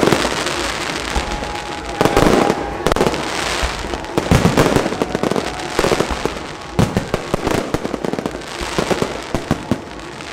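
Aerial fireworks bursting in rapid succession, with dense crackling and sharp bangs that come in loud clusters about 2, 3, 4.5 and 6 seconds in. A faint whistle rises over the bursts early on.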